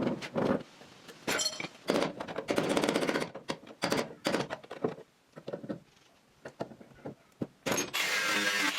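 Repair work on farm machinery: a run of sharp knocks and clanks of tools on metal, with rough, noisy stretches about two seconds in and again near the end.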